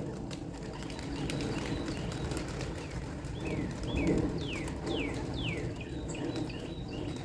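Domestic pigeons cooing, a continuous low pulsing murmur from the flock. Around the middle a series of short, high, falling chirps from a smaller bird joins in.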